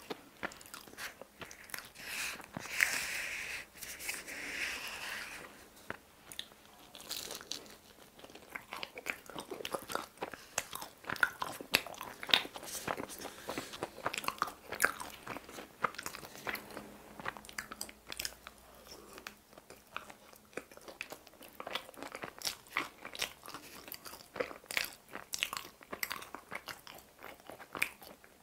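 Close-miked chewing of pizza: wet mouth clicks and crunchy bites through the crust, with a louder crunchy stretch a few seconds in.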